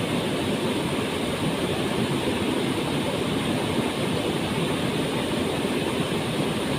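Waterfall's falling water, a steady, even roar heavy in the low and middle range.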